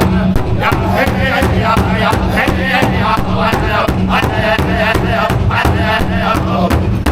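Powwow drum group singing a high chant over a steady beat on a large shared drum.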